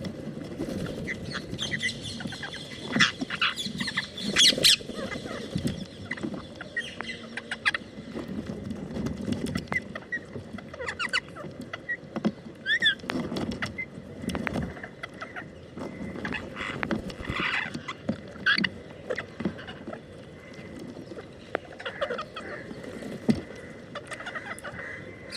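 Parrots calling in short squawks and chirps, coming and going all along, loudest about four seconds in, with scattered sharp clicks between the calls.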